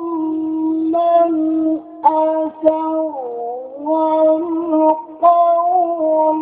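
A male reciter chanting the Quran in the melodic Egyptian mujawwad style, holding long high notes with a slow dip and rise in pitch in the middle, broken by short pauses for breath.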